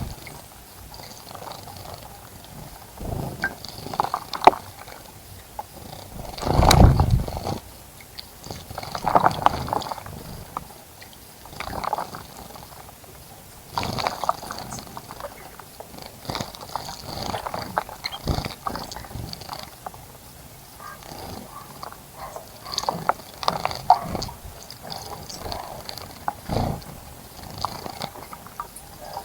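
Small birds bathing in a bird bath: irregular bursts of splashing and wing-fluttering in shallow water, the biggest flurry about seven seconds in.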